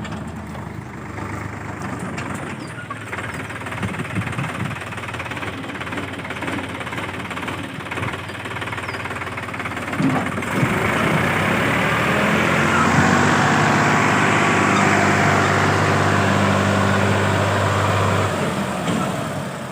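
Sonalika Sikandar DI 50 RX tractor's diesel engine running steadily, then revved up louder about halfway through and held, dropping back near the end.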